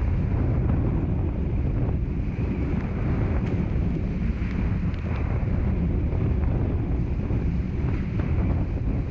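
Strong wind buffeting the onboard microphone over the rush of water past the hulls of a Hobie 16 catamaran sailing fast in high wind, steady throughout.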